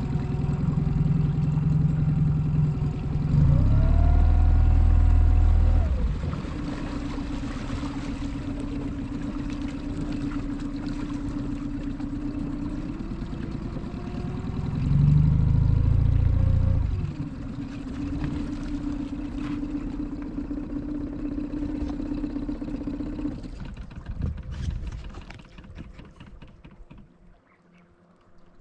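Boat motor running steadily, rising in pitch and getting louder twice as it is throttled up, then dying away near the end.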